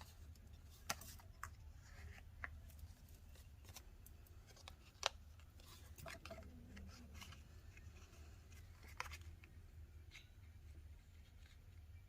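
Faint, scattered light clicks and ticks of cardstock and small crafting tools being handled on a work surface, over a low steady hum.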